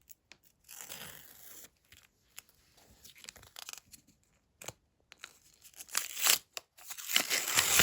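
A small paper surprise packet being opened by hand: scattered rustling and crinkling of paper with tearing, louder in the last couple of seconds.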